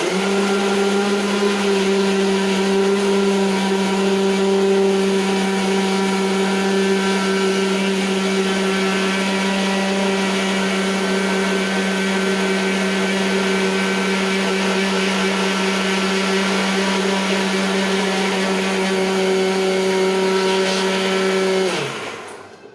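Electric mixer grinder running steadily, grinding tomato, green chillies and onions into a paste. Near the end it is switched off and the motor winds down with a falling pitch.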